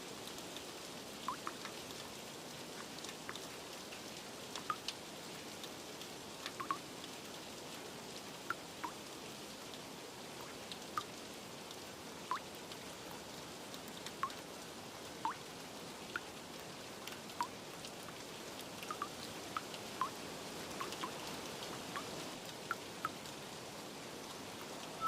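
Steady light rain with separate water drips plinking irregularly, about one a second.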